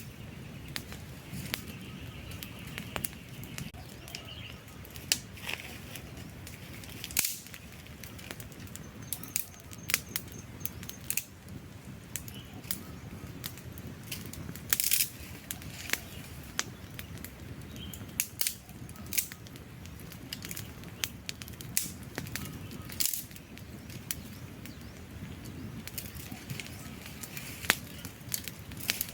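Wood campfire burning, with irregular sharp crackles and pops over a steady low rush of flames.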